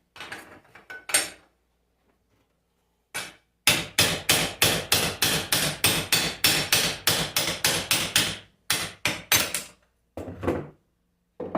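Hammer blows on metal alternator parts. A few scattered knocks come first, then a fast, even run of about four blows a second for some four seconds, then a handful of spaced strikes.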